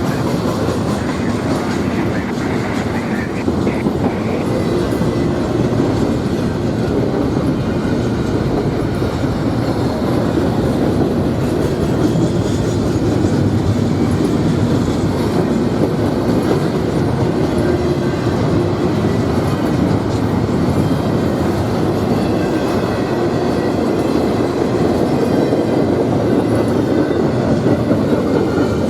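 A train's cars rolling past on the rails, a steady continuous noise of wheels on track that holds at an even level throughout.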